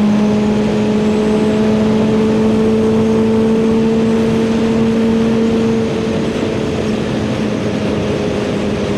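A 2023 Suzuki GSX-R1000R's inline-four engine, fitted with a CS Racing full exhaust, pulls hard in gear at highway speed, its note rising slowly over steady wind rush. About six seconds in the throttle eases and the engine note drops slightly in level.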